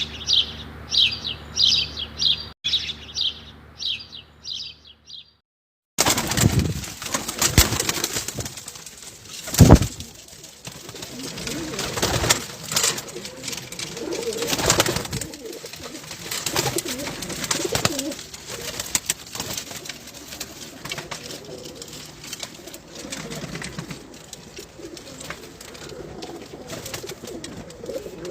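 Homing pigeons cooing in their loft, with scattered sharp knocks, the loudest about ten seconds in. This follows an opening run of quick, high chirps over a steady low hum that stops about five seconds in.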